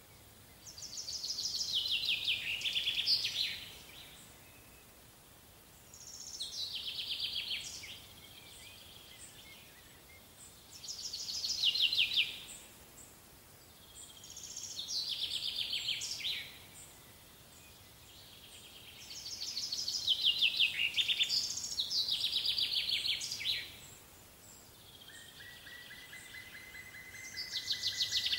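A songbird singing, repeating short trilled phrases that fall in pitch, one every four to five seconds, with a steady high note from a second source near the end.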